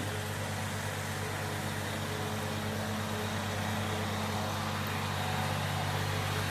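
Tractor engine running steadily, growing slightly louder toward the end.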